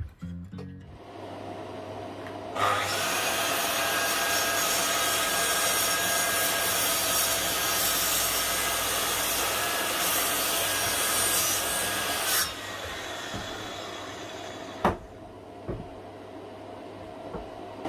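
Power woodworking tool starting up and running steadily on wood for about ten seconds with a hissing cutting noise, then stopping; quieter work and two sharp knocks follow.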